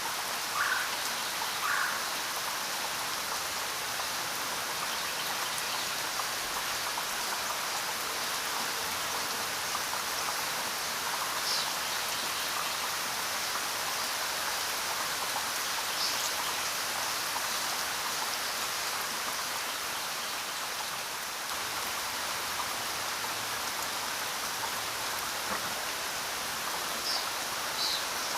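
Steady rainfall, an even hiss of many drops. A few brief, higher-pitched sounds stand out over it: two near the start, then others about 12, 16 and 27 seconds in.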